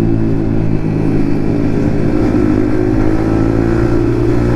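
Yamaha MT-15's single-cylinder engine exhaling through an aftermarket Akrapovic exhaust while riding, running at a fairly steady speed with small rises and falls in pitch.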